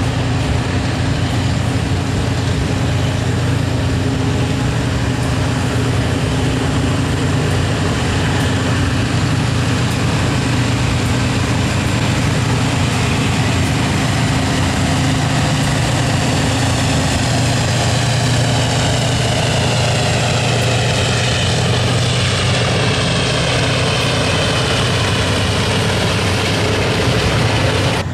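Diesel locomotives running steadily with a low drone as they slowly move a train of dead electric locomotives along the track, with the rumble of the train rolling on the rails.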